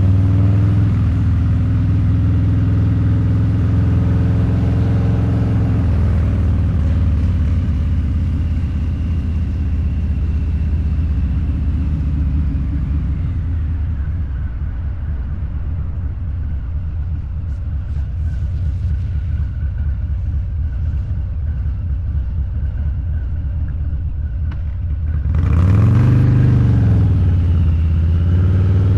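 Harley-Davidson Low Rider's 129ci V-twin with a Two Brothers Racing exhaust, riding under steady throttle and easing off in the middle. Near the end it gets a sharp burst of throttle: the exhaust note rises in pitch, then falls back.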